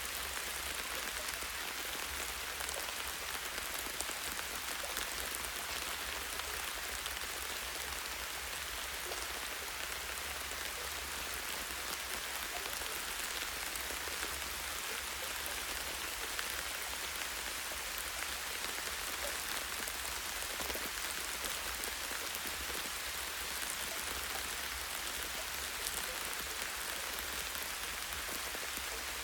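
Light, steady rain falling on foliage, with many small drops pattering on leaves and a branch.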